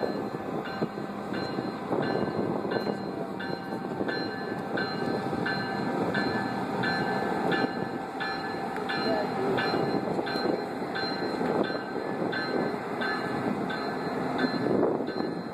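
Passenger train cars rolling slowly past with steady wheel and rail noise, a streamlined diesel cab unit coming by near the end. A bell rings steadily through it, a little under twice a second.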